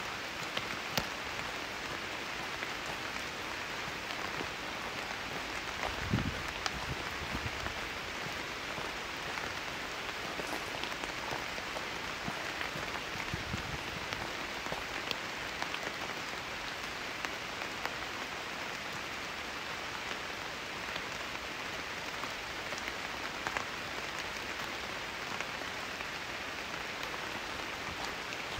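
Steady rain falling on forest foliage and a gravel path, with many scattered individual drop ticks. There are soft low thumps about six seconds in and again near the middle.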